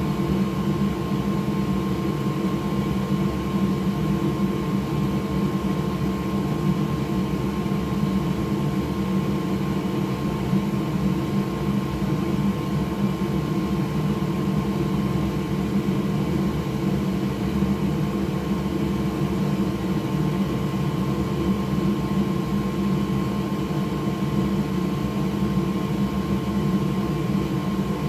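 Steady whir of a small electric blower running continuously at a soldering bench, with a constant hum underneath.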